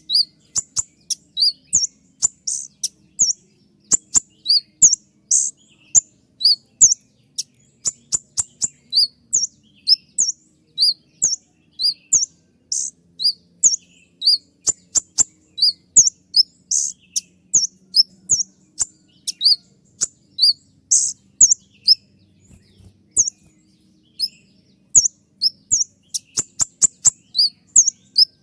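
Kolibri ninja sunbird singing a fast run of short, sharp, high-pitched chirps, the 'tembakan' (shot) notes, about two to three a second. It breaks off briefly a little past two-thirds of the way through, then carries on.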